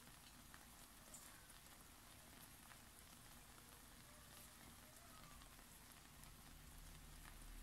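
Faint sizzling of an egg omelette cooking in oil in a frying pan, a soft hiss with scattered tiny crackles, barely above near silence.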